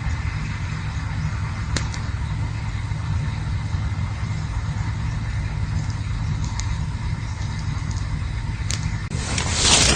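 Campfire burning with a steady low rumble and a few sharp crackling pops, then a louder hissing surge near the end.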